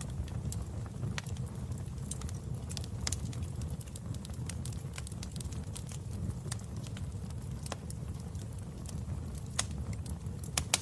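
Wood fire in a fireplace crackling: a steady low rumble of flames with irregular sharp pops and snaps, one louder pop near the end.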